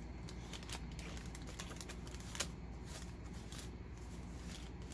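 Paper and card pages of a handmade journal being handled: light rustles and small scattered clicks, with one sharper tap about halfway through.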